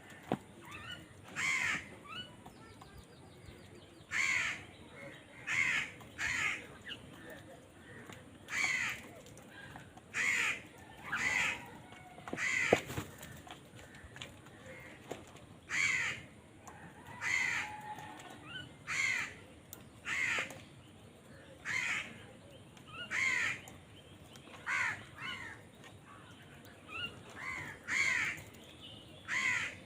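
Crows cawing over and over: about twenty short, harsh caws, roughly one every second or two. A single sharp click near the middle.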